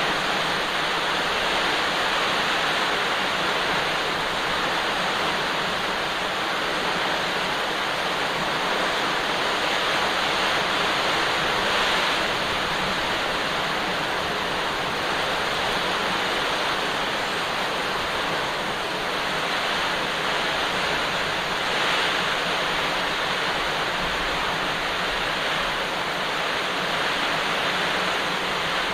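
Very heavy rain pouring down, a steady dense hiss that neither builds nor eases.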